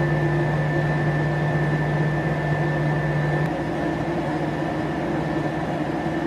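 Steady mechanical drone with a low hum and a fainter high whine; the hum drops a little about three and a half seconds in.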